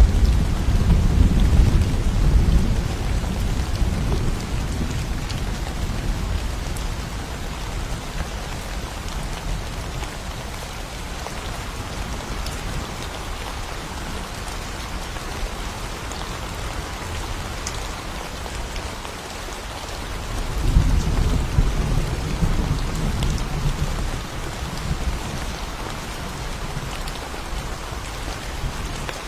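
Steady rain falling in a forest, with low rolls of thunder: one fading away over the first few seconds, another rumbling in about twenty seconds in.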